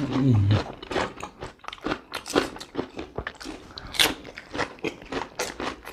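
Raw cucumber slices being bitten and chewed, with many short, crisp crunches.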